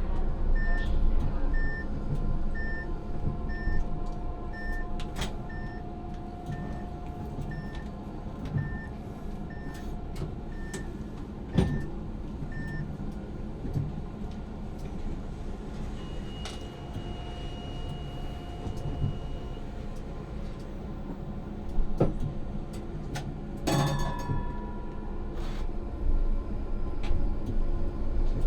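Inside a tram's driver cab: a steady hum and low rumble of the tram, with a repeating electronic beep about one and a half times a second that stops about 13 s in. A few sharp knocks follow, the loudest about 24 s in with a short ringing tone after it.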